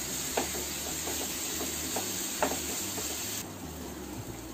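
Onion-tomato masala with besan sizzling as it is roasted in a nonstick frying pan, with a few scrapes of a wooden spatula stirring it. The hiss drops a little about three and a half seconds in.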